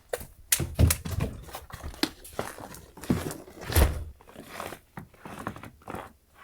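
Irregular footsteps and knocking thuds, a few of them heavier, about a second in and near the four-second mark.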